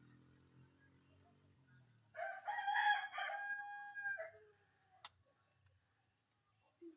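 A rooster crowing once: a single loud pitched call about two seconds long that drops in pitch at the end. A faint low hum fades out just before it.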